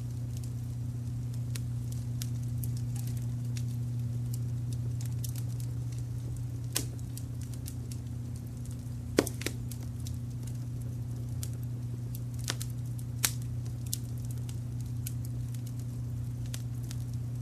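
Wood fire crackling in a fireplace, with scattered sharp pops and snaps, the loudest about nine seconds in, over a steady low brown-noise rumble.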